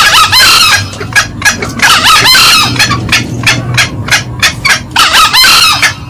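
Green junglefowl calling loudly: three longer crows, at the start, about two seconds in and about five seconds in, over a steady run of short, sharp cackling notes, about three to four a second, from male and female birds.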